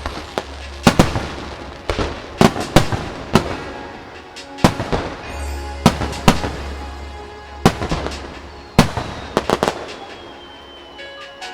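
Aerial fireworks shells bursting one after another at irregular intervals, a dozen or so sharp reports each trailing off in an echo, with music playing underneath.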